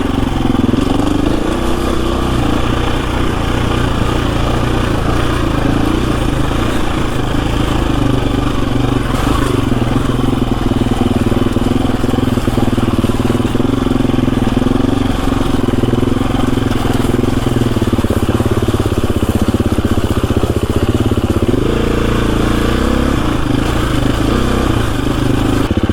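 KTM 350 EXC-F single-cylinder four-stroke dirt bike engine running as the bike is ridden, its revs rising and falling.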